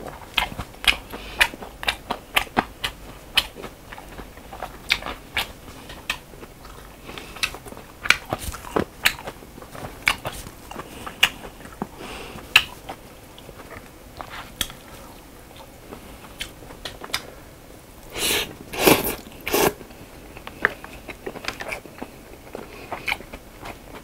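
Close-up eating sounds: a person chewing braised pig's trotters (jokbal), with many small wet mouth clicks and chopstick clicks against a plastic takeout tray. About three-quarters of the way through comes a short run of three louder noisy sounds.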